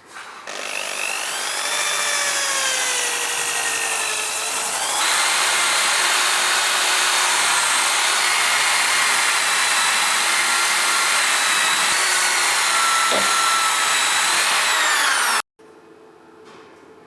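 Small power tool running with a high whine over a rough grinding noise. Its pitch wavers for the first few seconds, steps up about five seconds in, holds steady, then cuts off suddenly near the end.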